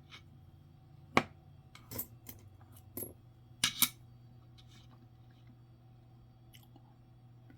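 Light clicks and taps of small hard objects being handled, about five of them between one and four seconds in, the first the sharpest, over a faint steady low hum.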